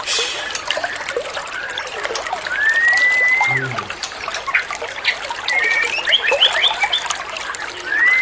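Water trickling steadily, with a bird giving one long whistle that rises and then holds about three seconds in, and a quick run of short chirped notes around six seconds in.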